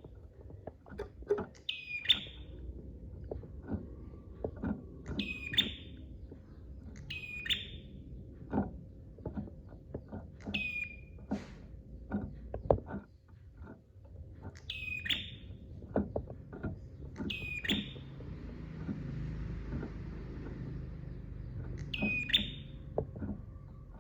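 Prenjak (prinia) singing: short, sharp high calls repeated about seven times, every two to four seconds. Low knocks and clicks sound between the calls.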